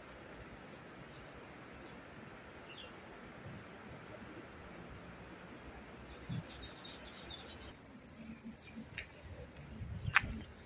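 Birds chirping faintly in the trees, then a loud, rapid, high-pitched trill lasting about a second near the end, followed by a few sharp clicks.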